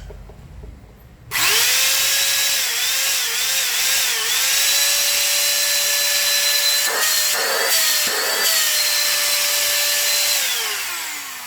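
Philco handheld vacuum cleaner's motor, hooked up for a quick test run, starts suddenly about a second in and runs with a steady high whine that wavers briefly. A few knocks come about two-thirds through, and near the end the motor is switched off and winds down, its pitch falling.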